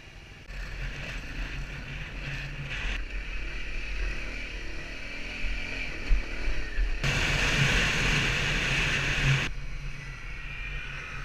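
Motorcycle engine running under way, with a steady low hum and wind rushing over the microphone. It gets markedly louder and rougher for a couple of seconds past the middle, then eases off again.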